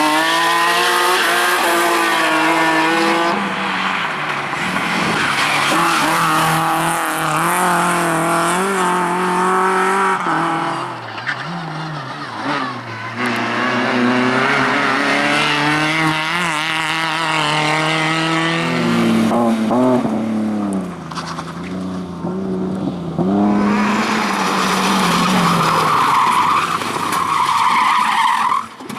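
Rally cars driven flat out on a sprint stage: engines revving high, pitch climbing and falling again and again through gear changes and lifts. Tyres skid, loudest near the end.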